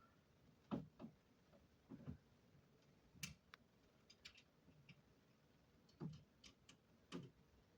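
Faint, scattered knocks and clicks, about a dozen at irregular times, some dull thumps and some sharper ticks: hands handling parts and hardware while fitting a window air conditioner.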